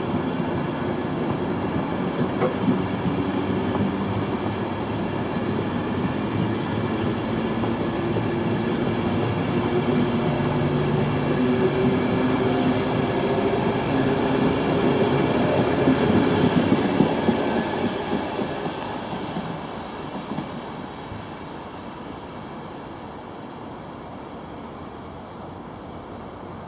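A train running through the station, growing louder to a peak about two-thirds of the way through, then fading away as it recedes.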